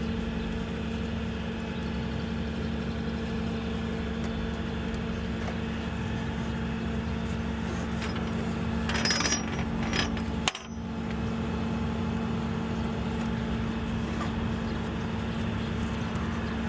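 Tow truck engine idling with a steady hum, with a short metallic clatter about nine seconds in and a brief dropout just after.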